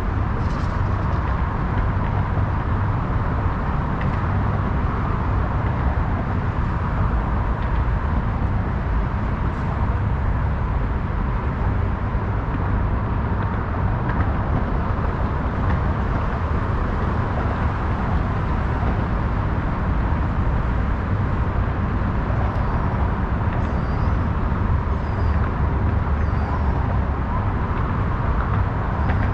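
Steady, unbroken city traffic noise, with no single vehicle standing out and a faint steady tone running through it.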